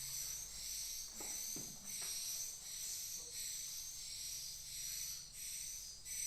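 Swiftlets twittering in a dense, high-pitched chatter inside a swiftlet house, swelling and dipping about once a second. A faint low hum runs underneath.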